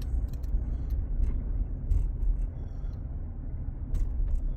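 Car driving, a steady low rumble of engine and road heard from inside the cabin, with a few light clicks and rattles.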